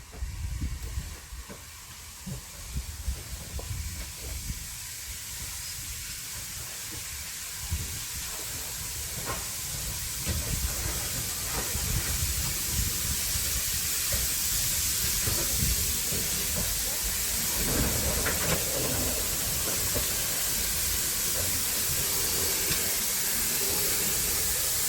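Steam locomotive hissing steam steadily, growing louder through the first half and then holding, over a low rumble.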